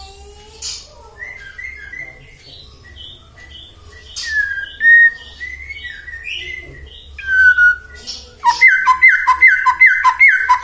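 White-rumped shama (murai batu) singing: varied clear whistles and chirps, then from about eight seconds in a fast run of repeated sharp notes, about three a second, which is the loudest part.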